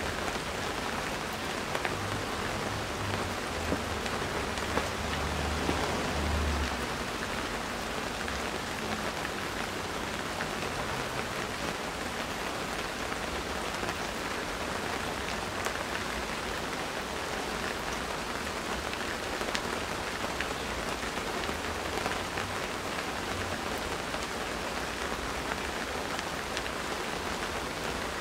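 Steady rain falling, with scattered sharper drop hits. A low rumble swells and fades in the first several seconds.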